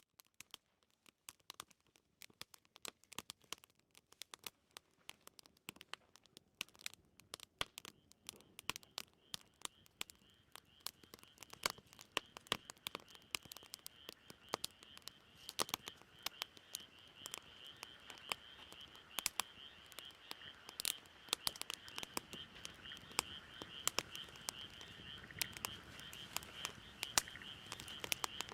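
Wood fire crackling with sharp irregular pops that grow denser and louder. From about eight seconds in, a steady high-pitched animal chorus, like frogs, runs behind the crackling.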